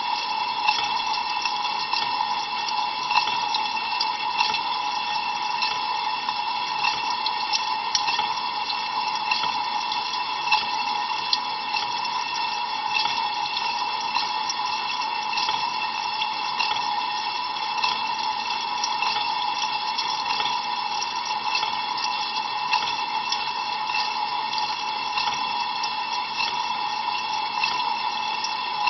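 Water sprayed from the spray arms of an Ariston LV 46 A IX dishwasher splashing steadily inside the tub during a cold-water rinse, heard from inside the machine. A steady tone runs underneath, with many small splatter ticks.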